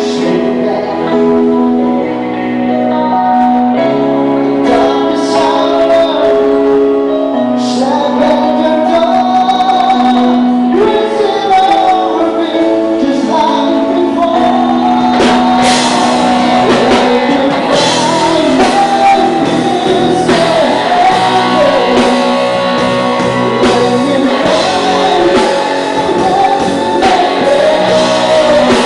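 Live rock band playing with a singer. Held chords open it, a sung melody comes in about eight seconds in, and the drums and cymbals grow fuller from about halfway.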